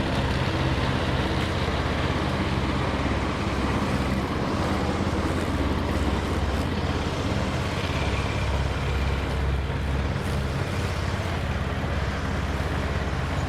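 Engine running steadily at an even speed, a constant low drone.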